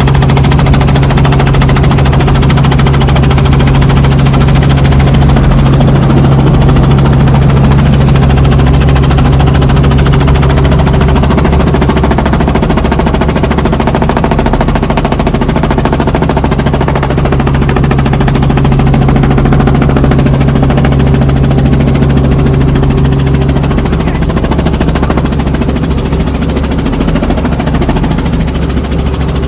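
Helicopter engine and rotor running with a loud, steady drone and a strong low hum; the hum eases off about 24 seconds in.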